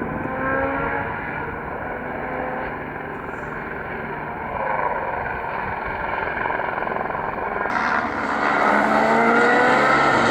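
Rally car engine at full throttle, its pitch climbing and dropping again and again with gear changes. It grows louder in the last couple of seconds.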